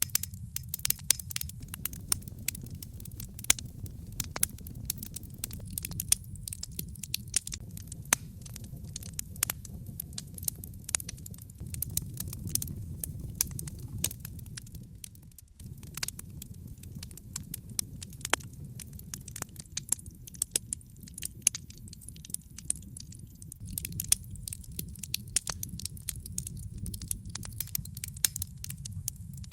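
Wood fire in a fireplace crackling, with frequent sharp irregular pops and snaps from the burning logs over a steady low rumble of the flames. The rumble dips briefly about halfway through.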